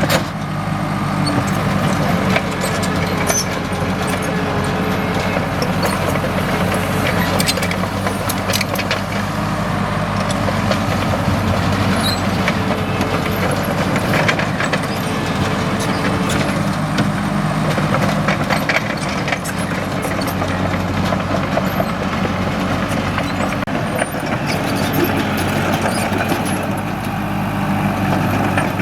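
Komatsu D37EX crawler bulldozer's diesel engine running steadily, with many short, sharp clicks and cracks scattered through it.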